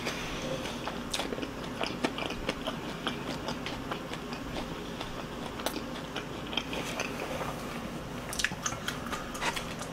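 Close-miked chewing of sauced fried chicken: a steady wet mouth noise with many scattered sharp crunches and clicks, a little more frequent near the end.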